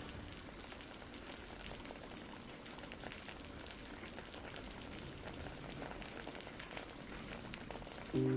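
Steady rain with the patter of many individual drops. Soft musical chords come in just before the end.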